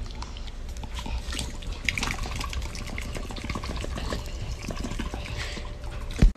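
Wet smacking and flapping of a black dog's lips and jowls as a hand rubs its face hard, in a rapid jumble of small clicks over low rumbling rubbing noise. A sharp knock comes near the end.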